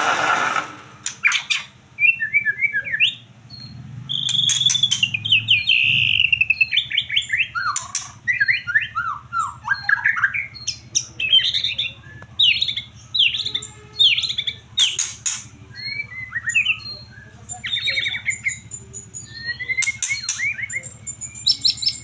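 White-rumped shama singing a long, varied song of whistled sweeps, rapid trills and falling phrases, broken by short harsh rasping notes. The bird is in 'hot', fired-up singing form.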